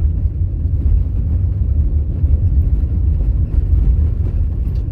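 Vehicle driving: a steady low rumble.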